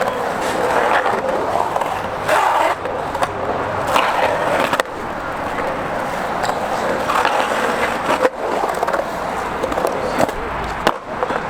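Skateboard wheels rolling steadily over concrete, with a few sharp clacks of the board.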